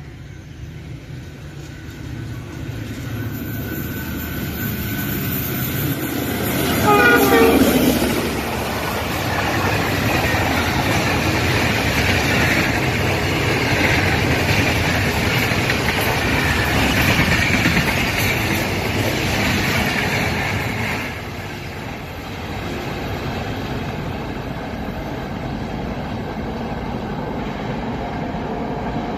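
Express train hauled by a ZCU-30 diesel-electric locomotive passing through a station at speed. Its rumble builds, and the horn sounds loudly for about a second around seven seconds in, its pitch falling as the locomotive goes by. Then the coaches' wheels clatter past steadily for some twelve seconds before the sound drops to a quieter rumble.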